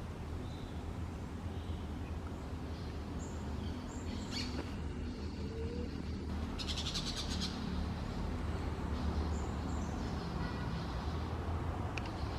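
Wild birds calling with scattered short high chirps and a fast trill of rapidly repeated notes about six seconds in, over a steady low hum.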